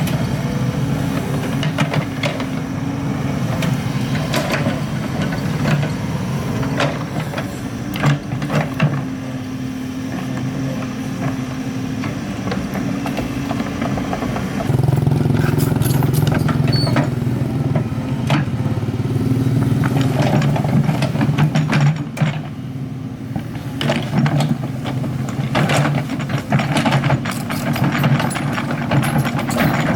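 Excavator's diesel engine running steadily, getting louder about halfway through, with scattered sharp knocks and clatters over it.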